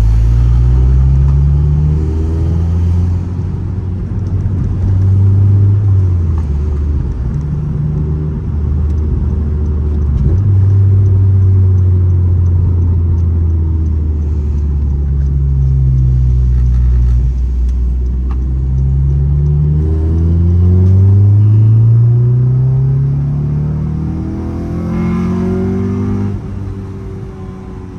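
Honda Civic Si's K24 2.4-litre four-cylinder with an aftermarket downpipe and exhaust, giving a deep, steady exhaust note under driving. The pitch climbs and falls several times as it pulls through the revs, with a long climb in the last third before it drops away near the end.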